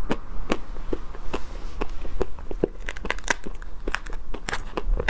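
Close-up chewing of chocolate ice cream with crunchy chocolate bits: irregular small crackles and clicks. Near the end, a metal spoon scoops from the paper tub.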